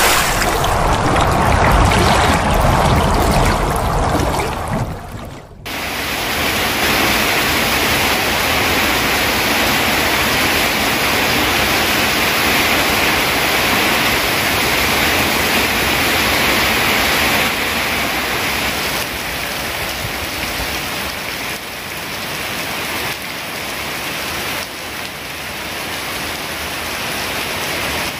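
Heavy rain pouring down in a dense, steady hiss. About five seconds in, an abrupt cut leads into a steadier, brighter rain noise.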